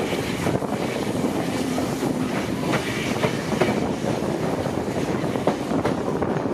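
Steam-hauled passenger train running along the track: a steady rumble with irregular clicks of wheels over rail joints.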